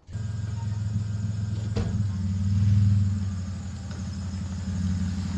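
An engine running steadily with a low drone that swells louder around the middle and eases off again, with a single sharp click about two seconds in.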